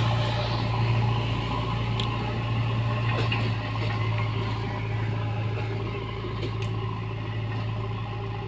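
Tractor diesel engine running steadily at a low, even speed, with a few faint clicks over it.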